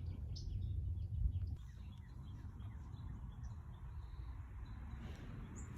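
Faint, short bird chirps over a low rumble of wind on the microphone; the rumble drops off about one and a half seconds in.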